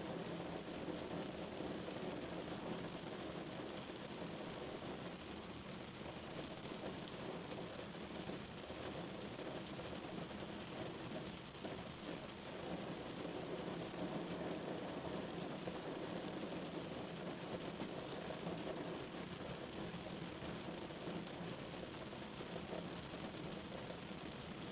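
Steady rain falling on a car: an even wash of rain noise with fine drop patter, holding at much the same level throughout.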